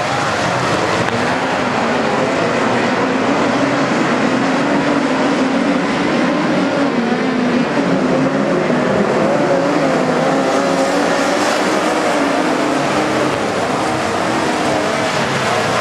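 Racing midget cars running at race speed, their engines at high revs, with the engine pitch wavering up and down.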